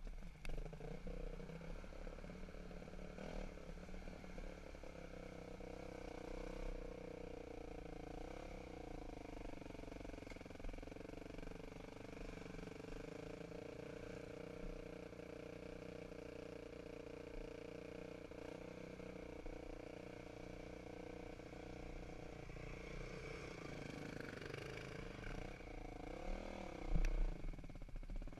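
Dirt bike engine running steadily, its pitch rising and falling near the end as the throttle is worked.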